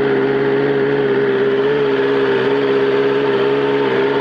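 BMW S1000RR inline-four engine running through an Akrapovic GP slip-on exhaust, held at a steady engine speed with the note staying nearly level and only wavering slightly.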